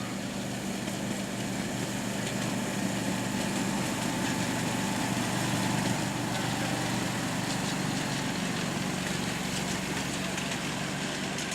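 A small engine running steadily at an even pitch, with a few faint clicks.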